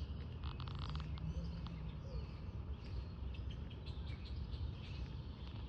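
Birds chirping and calling in short, high notes scattered throughout, with a quick rattling run of notes in the first second, over a steady low rumble.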